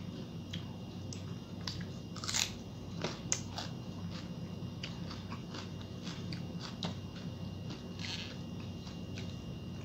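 Close-up chewing and crunching of crisp food: a string of small, irregular crackles and clicks over a steady low hum.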